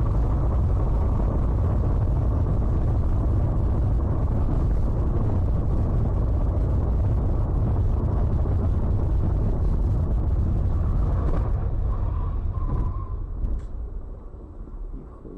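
Steady low rumble of vehicle and road noise, easing off near the end.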